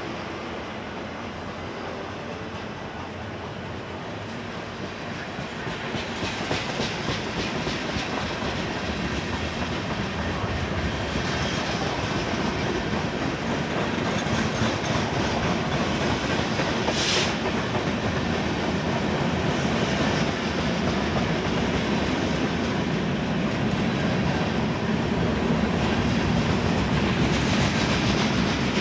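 Freight cars of a Union Pacific manifest train rolling past, wheels clicking over the rail joints, growing louder about six seconds in. About two thirds of the way through there is a brief high squeal.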